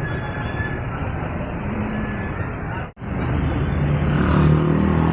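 Road traffic noise from passing vehicles. After an abrupt break about three seconds in, a heavy vehicle's engine hum grows louder as it approaches.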